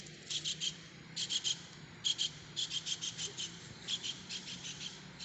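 High, dry chirping in quick runs of two to seven short pulses, repeated through the whole stretch, from a small animal: a cricket or a begging chick.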